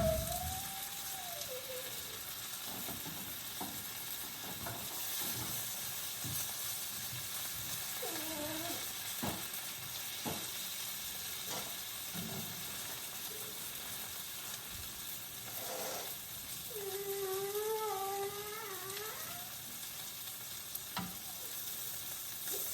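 Pepper steak frying in a pan: a steady sizzling hiss, with a few sharp clicks and a couple of short wavering voice-like sounds about 8 s in and again around 17 to 19 s.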